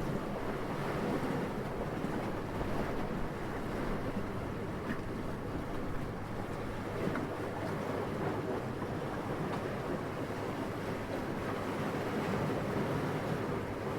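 Gentle, steady wind blowing, a soft even rush with small swells in strength.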